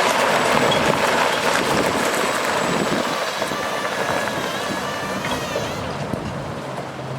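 Diesel dump truck on the move: a steady rush of engine, road and wind noise that gets gradually quieter.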